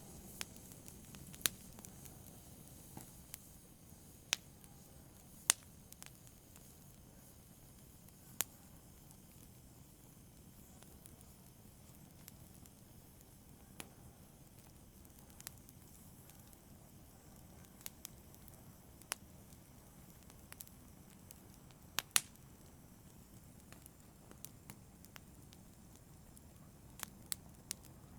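Small fire in a brazier crackling softly: irregular sharp pops and snaps over a faint low hiss, with a close pair of louder pops about two-thirds through.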